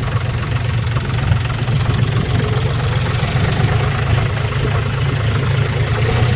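Tractor engine running steadily, a loud, even low throb.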